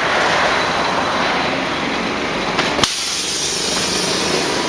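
Appenzeller Bahnen electric train passing close by: a steady rumble and hiss of wheels on rail and running gear, with one sharp click about three seconds in.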